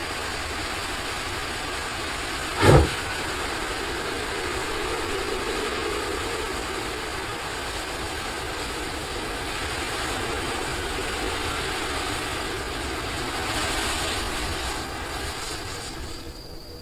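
A giant ball of matches burning: a steady rushing noise of the fire, with one sudden loud burst nearly three seconds in.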